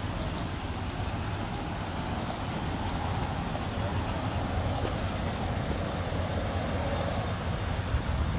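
Steady road traffic noise, swelling slightly a few seconds in.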